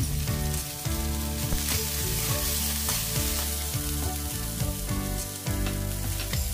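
Chopped spring onions, garlic and green chillies sizzling in hot oil in an aluminium kadai, with a metal spoon stirring through them near the end.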